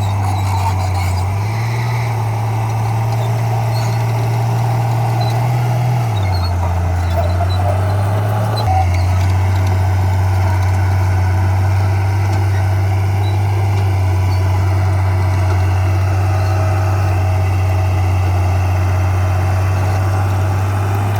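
Heavy diesel engine of earthmoving equipment running under load. Its low drone shifts up and down in pitch a few times during the first nine seconds, then holds steady.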